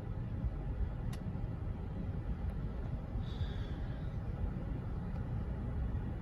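Train passing a grade crossing: a steady low rumble, with a single sharp click about a second in.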